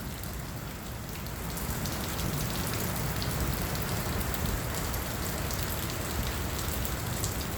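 Heavy monsoon rain pouring and pattering on surfaces, a steady rush that swells slightly about two seconds in.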